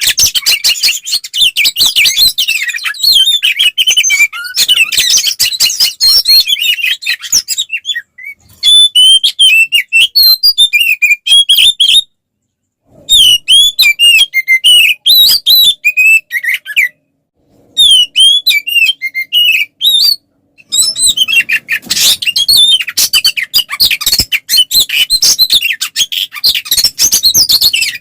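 Oriental magpie-robin (kacer) singing loud, fast fighting-mode song. It starts with dense chattering runs, moves to clearer whistled phrases in the middle, and returns to dense chatter near the end. The song cuts out completely for about a second some twelve seconds in.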